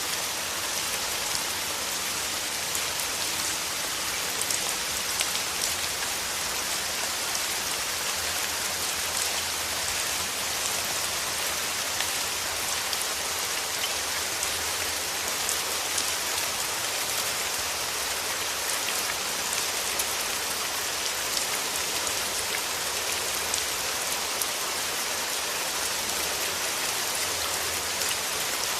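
Steady rain falling through forest trees: an even hiss with many small drop patters on leaves and surfaces.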